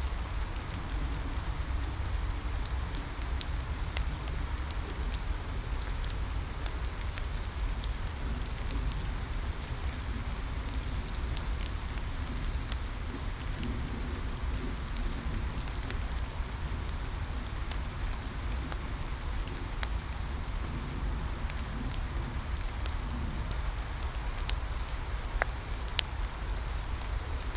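Steady rain with a low rumble underneath, dotted with scattered sharp pops and crackles from a wood fire.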